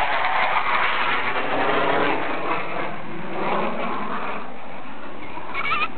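F-15 Eagle jet engines roaring during a pass, with a whooshing sweep that falls in pitch as the roar eases off.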